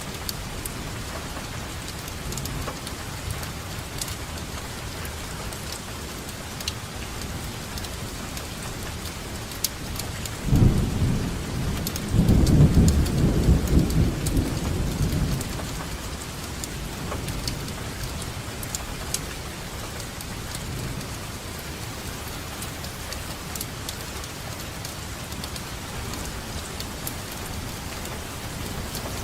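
Steady rain falling, with scattered sharp drop hits. About ten seconds in a roll of thunder comes in, loudest a couple of seconds later and dying away over several seconds, and another starts at the very end.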